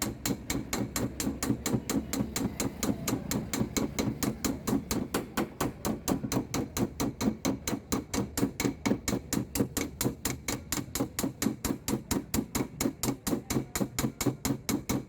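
Rapid, even tapping of a small hammer or knockdown tool on a car door's steel panel, about five light strikes a second, as a dent is worked out by dry denting (paintless dent repair).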